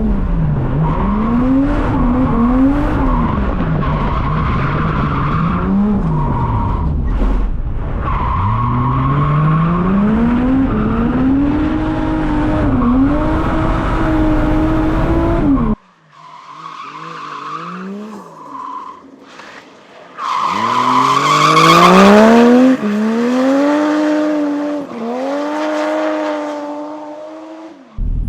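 Drift car engine revving up and down through a drift run, the pitch climbing and falling with throttle and gear changes, with tyres skidding and squealing. About halfway the sound drops away suddenly and returns quieter, then the engine revs hard with the loudest tyre squeal a little before the end.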